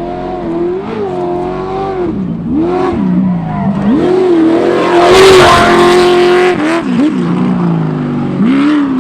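Class 1 off-road race buggy's engine revving up and falling back again and again as the driver works the throttle, growing louder as it passes close about five seconds in with a rushing noise, then pulling away still revving.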